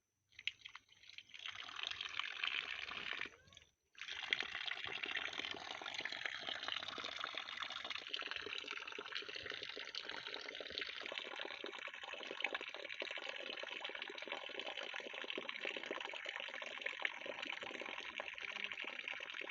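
Running water, a steady trickling rush that cuts out briefly and starts again about four seconds in.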